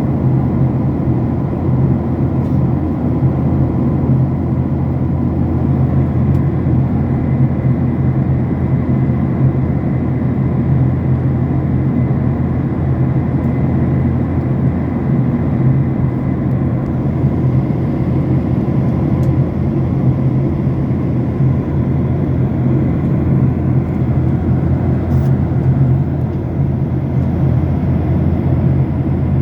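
Steady drone of an airliner in flight heard inside the cabin: engine and airflow noise, deep and unbroken, with faint thin steady tones above it.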